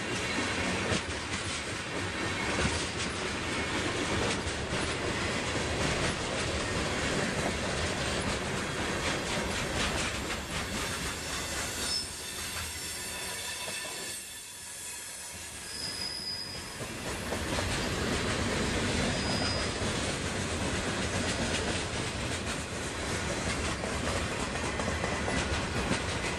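Freight cars of a long mixed freight train rolling past: a steady rumble and clatter of steel wheels on the rails, with a few brief high wheel squeals in the middle, where the sound dips quieter for a few seconds.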